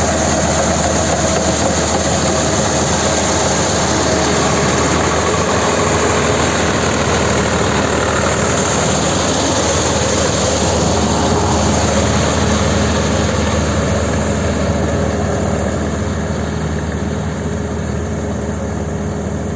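Swaraj 855 4WD tractor's three-cylinder diesel engine running steadily, getting a little quieter in the last few seconds.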